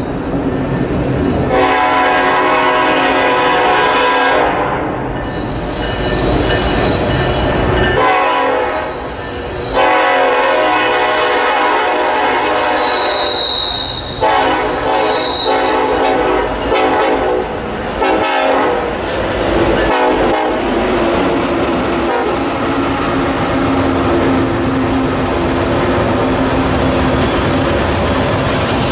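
Diesel freight train led by a BNSF SD70ACe locomotive sounds its horn in several long blasts as it approaches, then the locomotives and a string of tank cars roll past with a steady rumble of wheels on rail.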